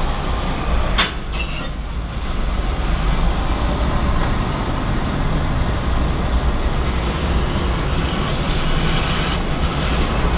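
Freight train of covered hopper cars rolling past a level crossing: a steady rumble of wheels on rail, heard from inside a car. There is a sharp knock about a second in.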